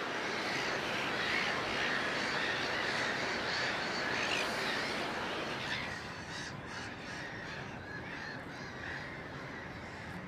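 A busy chorus of many birds calling at once, harsh and overlapping, easing a little about six seconds in.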